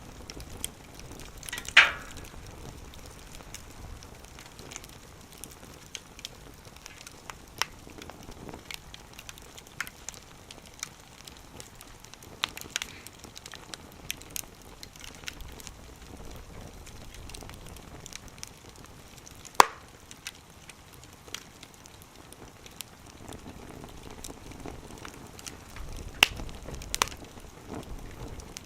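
Wood fire burning, with an irregular crackle of sharp pops over a soft steady background; the loudest pops come about two seconds in, around twenty seconds in, and near the end.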